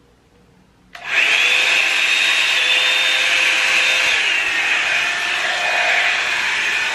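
Revlon One-Step hair dryer brush switched on about a second in, then running with a steady rush of air and a high motor whine.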